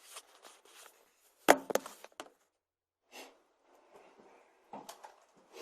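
A sharp, loud knock about one and a half seconds in, followed by a quick second knock, with lighter clicks and rustling handling noises before and after.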